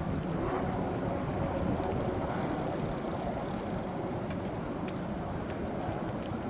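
Steady rumbling noise of an e-bike being ridden, with a few faint ticks along the way.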